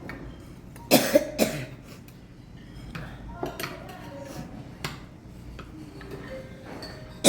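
A woman coughing, a quick burst of three coughs about a second in and another cough at the very end: food caught going down the wrong way (사레) while eating rice.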